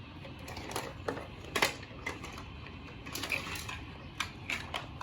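Plastic parts of a Tomica Patrol Car toy playset being handled: a scatter of light clicks and knocks, the loudest about one and a half seconds in.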